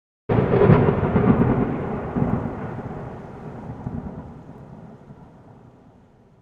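A thunderclap that breaks suddenly just after the start, then rolls on and fades away over about six seconds.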